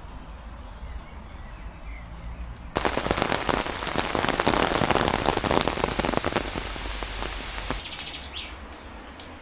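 Heavy rain pattering, dense with the clicks of individual close drops. About three seconds in it suddenly gets much louder, and it drops back just as suddenly near the end.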